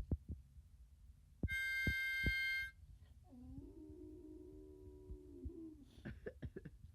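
A harmonica chord blown once for just over a second, bright and steady; it is the loudest sound. It is followed by a lower, wavering held tone lasting about two seconds, which rises at its start and falls away at its end, and then a few short sharp sounds near the end.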